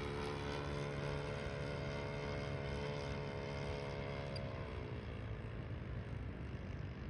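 Engine of a radio-controlled model Corsair warbird running steadily in flight, its note dropping in pitch and fading about four to five seconds in, leaving a rushing hiss.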